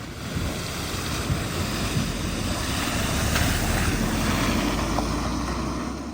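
Steady rush of flood water through a ford, with wind buffeting the microphone.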